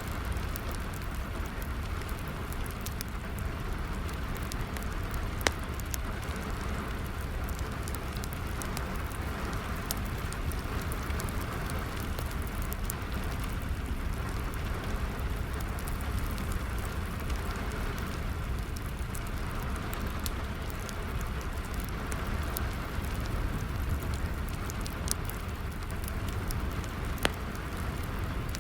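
Steady rain falling, mixed with a crackling wood fire whose small pops and snaps come scattered throughout; two sharper pops stand out, one about five seconds in and one near the end.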